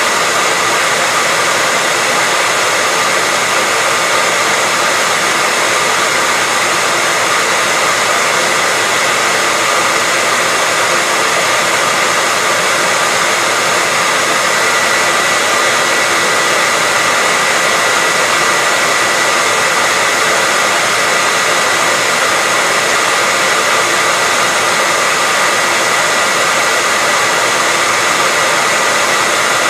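Hair dryer running steadily: a loud, even whooshing hiss of blown air with a faint motor whine near 2 kHz, unchanging throughout.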